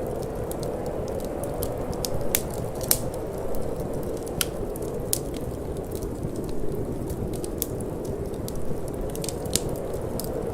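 Wood fire burning in a fireplace, crackling with scattered sharp pops at irregular intervals over a steady low rush of wind.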